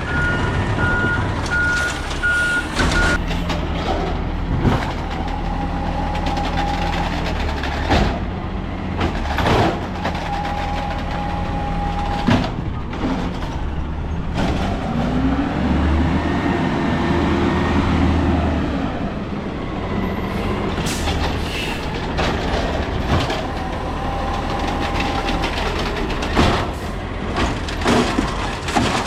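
Peterbilt 320 garbage truck with an Amrep automated side-loader body working: the engine runs steadily, its reverse alarm beeps for the first few seconds, and repeated sharp bangs come from the loader arm and cart slamming. About halfway through the engine revs up and back down.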